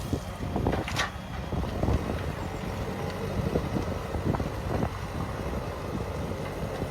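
Heavy vehicle engine running with a steady low rumble and wind noise on the microphone. A few short knocks, the strongest about a second in.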